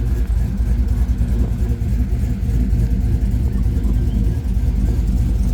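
Vehicle engine and road noise while driving: a steady low rumble.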